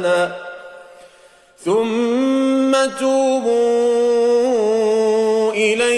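A male voice in melodic Quran recitation (tajweed). The end of one phrase fades into a short breath pause, then about a second and a half in, a long held note begins, drawn out with small melodic turns near the end.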